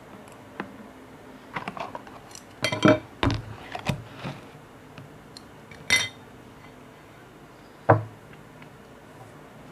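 Kitchenware being handled: a series of separate knocks and clinks, loudest about three seconds in and again near the end. One ringing clink comes about six seconds in, like glass or metal being struck.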